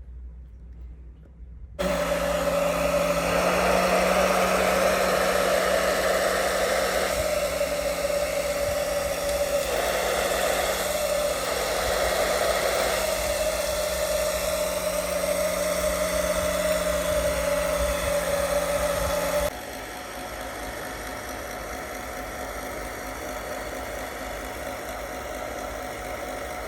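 Hot-air blower switched on about two seconds in, running with a steady whooshing hum; about nineteen seconds in it drops to a quieter, lower setting and keeps running. It is heating the GoPro's screen to soften the adhesive holding it in.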